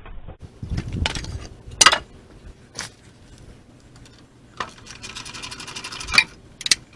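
Metal clanking and rattling as hand tools, bolts and a steel cover panel are handled on a sawmill: several sharp clanks, a scraping rumble about a second in, and a fast run of even clicks near the end.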